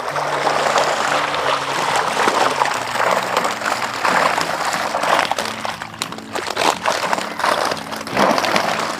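Water splashing and sloshing in irregular bursts as a submerged net fish cage is hauled up. Background music with a simple stepping melody plays under it.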